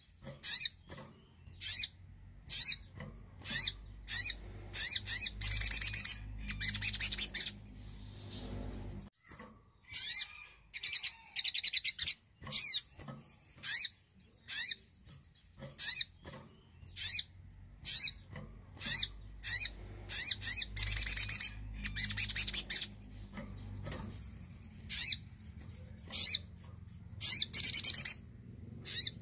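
Sogon (sogok ontong spiderhunter) calling over and over: sharp, high single notes about once a second, broken three times by longer rapid chattering trills.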